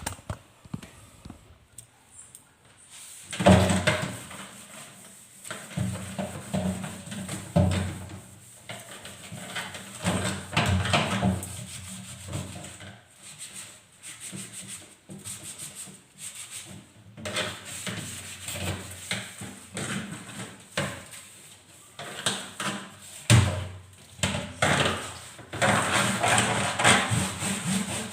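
Refrigerator interior being scrubbed and wiped by hand, with irregular rubbing strokes starting about three seconds in.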